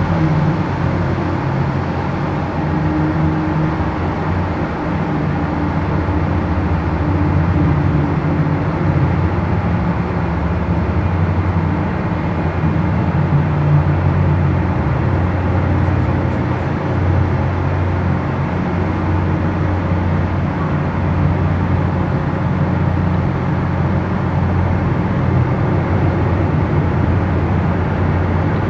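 Steady engine drone from boats on the water, a constant low hum with no clear changes.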